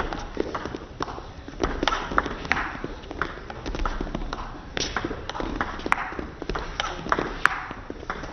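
Table tennis ball clicking off rackets and the table in play: a run of sharp, uneven taps, several a second, over low hall noise.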